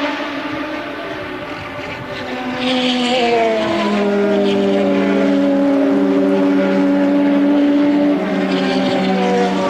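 1983 Formula One race car engines at racing speed, their note shifting and stepping in pitch. The sound grows louder about two and a half seconds in.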